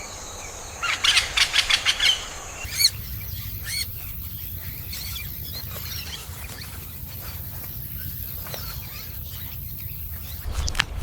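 A loud rapid series of bird calls, about six notes a second, lasting about a second, then one more call. After that comes quieter forest ambience with a steady high hiss and scattered faint chirps.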